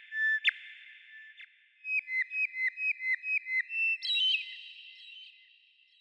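Bird song of pure whistled notes with a lingering echo: a note near the start, then a quick run of about nine short notes each ending in a downward flick, and a higher phrase about four seconds in that rings on and fades.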